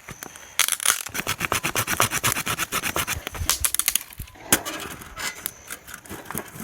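Firewood being sawn by hand: a quick run of rasping saw strokes lasting about three seconds, then a single knock and a few lighter clicks of wood.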